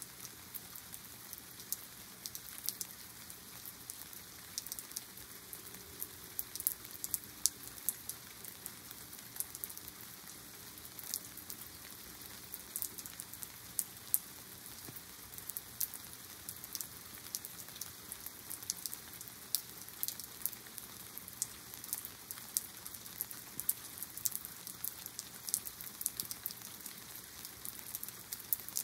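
Steady shower of rain falling, with a dense patter of drops ticking sharply on nearby surfaces. A faint low tone sits under the rain for several seconds about five seconds in.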